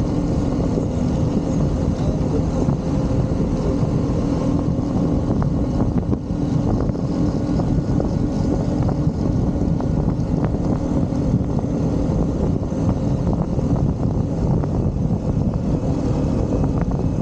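Motorcycle engine running at a steady cruising speed on the move, with a constant engine note over wind and road rumble.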